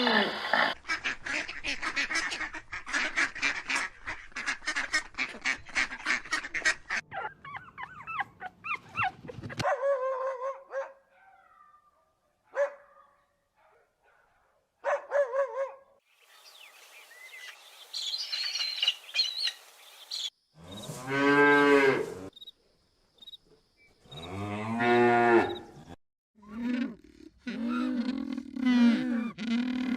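A run of different animal calls, one clip after another. First comes a fast string of short, repeated calls for several seconds, then scattered single calls with gaps. Near the end there are three long, deep, drawn-out calls.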